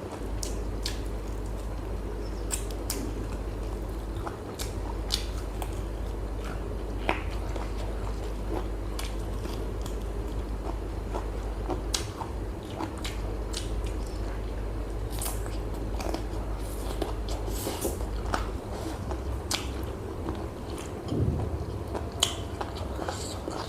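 Close-up eating sounds: chewing and biting, with scattered wet mouth clicks and small crunches over a steady low hum.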